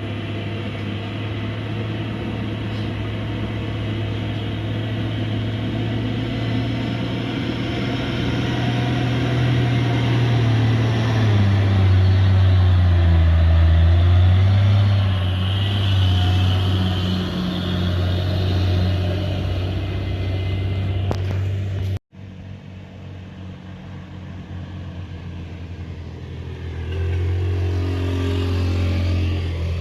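Heavy truck's diesel engine running under load, a low drone that grows louder and shifts in pitch over the first half. It cuts off suddenly about 22 seconds in, comes back quieter, and swells again near the end.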